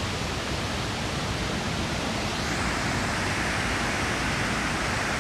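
Panther Creek Falls: a steady rush of falling water, getting louder and hissier about halfway through.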